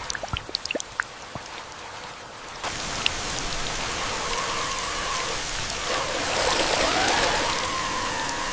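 Scattered drips and splats of water, then from about two and a half seconds in a steady rain-like rush of water. A thin whine joins it and rises in pitch about six seconds in.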